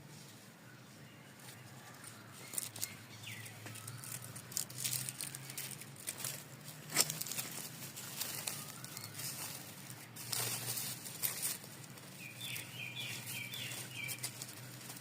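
Irregular rustling and crinkling, with a sharp click about seven seconds in and a steady low hum underneath. Near the end a bird gives a quick run of about five short chirps.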